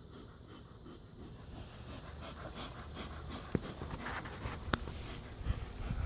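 Italian honeybees buzzing around an opened hive, growing louder after a couple of seconds, a sound the beekeeper hears as the bees getting angry and annoyed. A few sharp clicks from handling the hive come through near the end.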